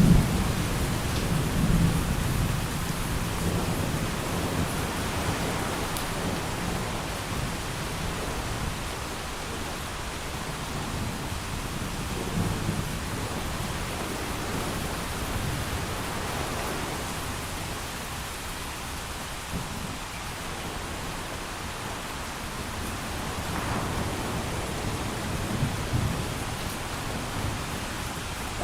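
Thunderstorm: steady heavy rain hissing, with thunder rumbling low. A rumble dies away over the first several seconds, and fainter rolls of thunder return twice later.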